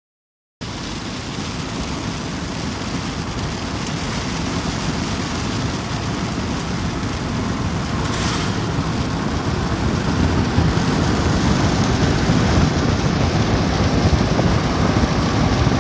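Steady rain falling, a dense hiss with a heavy low rumble underneath that slowly grows louder.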